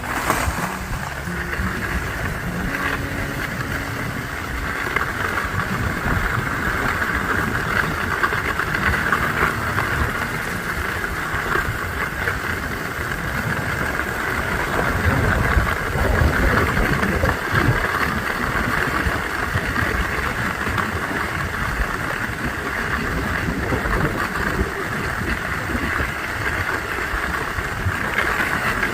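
Skis sliding and scraping over hard-packed groomed snow, a steady hiss with wind rumbling on the microphone.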